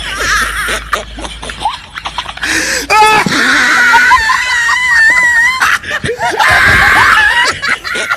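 A person screaming, high-pitched and wavering, held for about three seconds from roughly two and a half seconds in, with laughter-like vocal sounds around it.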